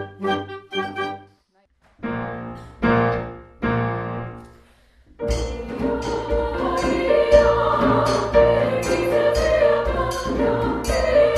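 Choir singing with instrumental accompaniment in rehearsal: a few short detached chords, a brief pause and three separate notes, then from about five seconds in the full choir and accompaniment sing and play continuously.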